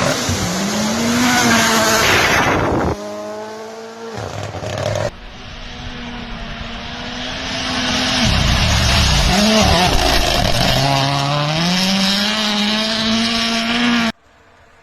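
Rally car engines revving hard, rising and falling in pitch through gear changes. The sound cuts abruptly to another car about three and five seconds in, and drops away near the end.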